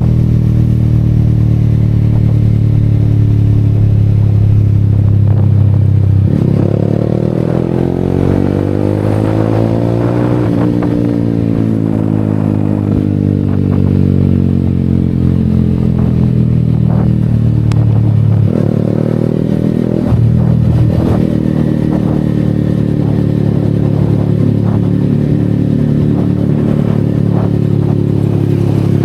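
Yamaha XSR155's single-cylinder engine running under way. Its note climbs steadily as the bike accelerates from about six seconds in, then eases off after about ten seconds, with abrupt changes in engine note near eighteen and twenty seconds.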